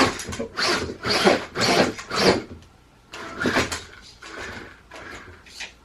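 Electric 4x4 RC monster truck driving in short bursts: several separate surges of motor and tyre noise as it accelerates and stops, with quieter gaps between.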